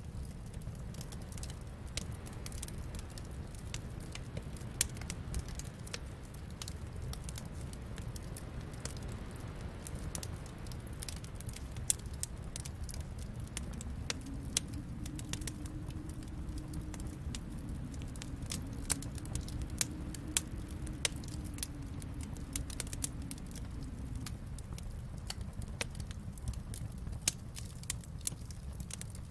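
Wood fire burning in a fireplace: a steady low rumble of flames with scattered sharp crackles and pops. About halfway, a faint low drone swells in and fades out again some ten seconds later.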